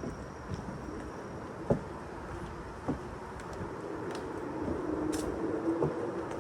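Low drone of a distant motor vehicle over outdoor background noise, growing a little stronger in the second half, with a few sharp knocks, two of them about a second apart.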